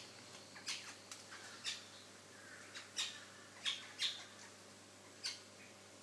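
Birds calling in the tree canopy: a series of about ten short, sharp calls at irregular intervals, the loudest a few seconds in.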